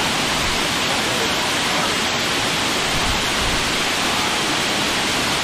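Waterfall pouring: a steady, loud rush of falling water close by.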